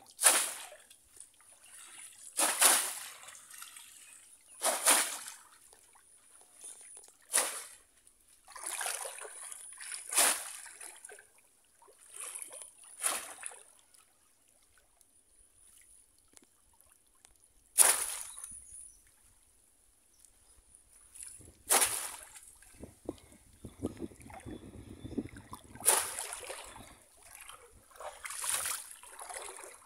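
Shallow floodwater splashing and sloshing as bamboo polo fish traps are plunged in and men wade. There are about a dozen separate splashes a couple of seconds apart, with a quieter spell in the middle.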